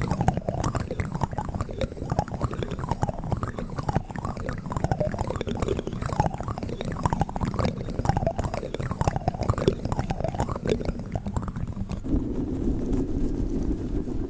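Plastic spoons handled close to the microphone: dense clicking, tapping and squeaky scraping of plastic on plastic. About twelve seconds in, this gives way to a steadier, lower squishing and rubbing sound.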